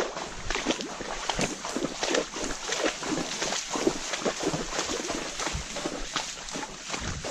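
Horse hooves walking on a wet, muddy trail, a steady run of irregular steps.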